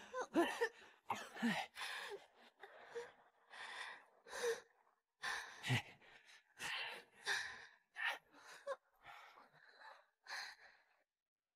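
A person gasping and breathing hard in short, faint breaths, about one or two a second, as after being pulled from the water and revived.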